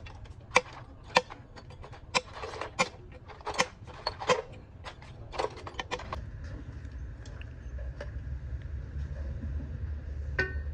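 Repeated sharp metallic clicks and clinks, as of hand tools working on tractor parts, for about six seconds. A steady low rumble follows, with one more click near the end.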